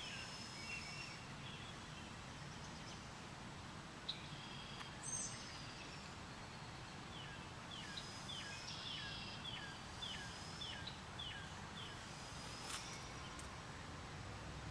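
Birds calling over a steady outdoor background hiss: thin whistled calls throughout, and in the middle a run of about eight short downward-slurred notes, evenly spaced a little over half a second apart.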